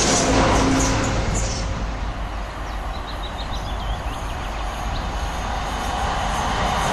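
Passing electric train's rail noise dying away, then another London Midland electric multiple unit approaching, its noise building again near the end. A few short high chirps about three seconds in.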